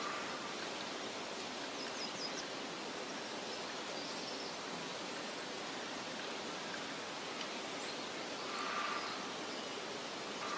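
Steady soft outdoor hiss of a meadow ambience, with a few faint, short high bird chirps and a brief swell about three quarters of the way through.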